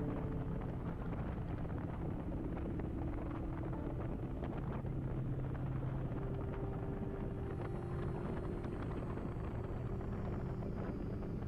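Kawasaki Vulcan motorcycle engine running steadily while riding, over a haze of wind and road noise; its note shifts slightly about halfway through.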